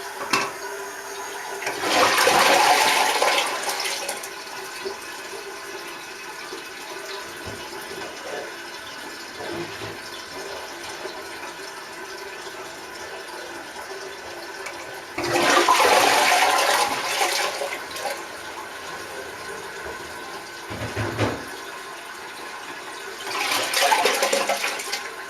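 Toilet flushing: three loud rushes of water, about two seconds in, about fifteen seconds in and near the end, with a quieter steady hiss in between.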